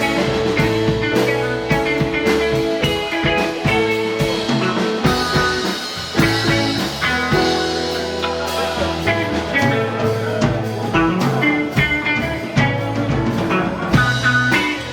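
Rock band playing an instrumental passage live: electric guitar lines over bass and a drum kit keeping a steady beat.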